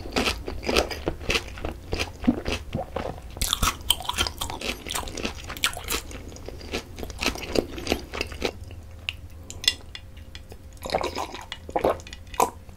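Close-miked chewing of a sauced fried chicken drumstick: a dense run of short, wet, sharp clicks that thins out past the middle. Near the end come the gulps of a drink being swallowed.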